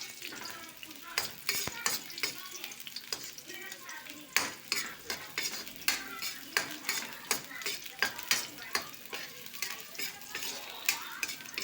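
Garlic, ginger and onion sautéing in hot oil, sizzling, while a spatula stirs them and scrapes against the pan in many sharp strokes, a couple a second.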